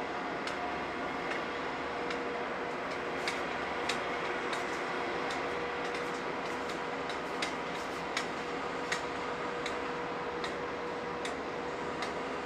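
Heavy road-construction machinery running with a steady mechanical hum and a held drone, with sharp irregular clicks and ticks over it.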